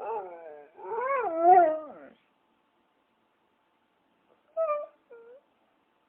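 A dog whining: a short falling cry, then a longer wavering one about a second in, and two short, fainter cries near the end.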